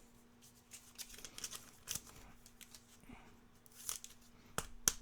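Trading cards being handled: faint rustling and sliding of card stock with light ticks, and a few sharper flicks near the end.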